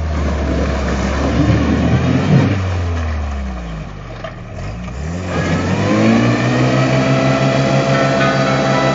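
Toyota pickup's engine revving hard in a mud hole, spinning its 31-inch Super Swamper Bogger mud tires. The revs drop about four seconds in, then climb again and hold high.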